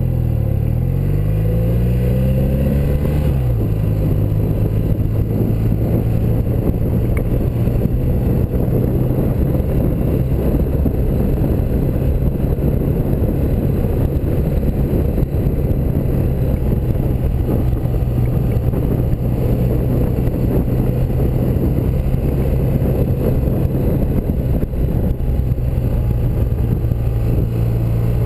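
1984 BMW R100RS's air-cooled flat-twin engine under way: revs climb for the first three seconds or so, drop sharply at a gear change, then hold steady at cruising speed with a constant rush of noise behind it.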